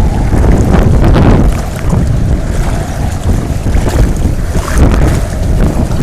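Strong storm wind buffeting the microphone, a loud, ragged rumble.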